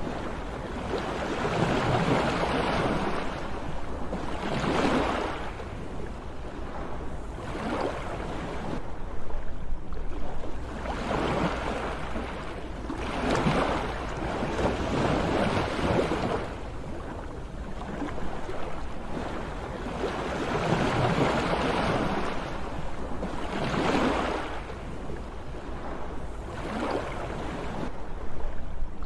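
Sea waves breaking and washing on the shore in repeated swells, each rising and falling away over a few seconds.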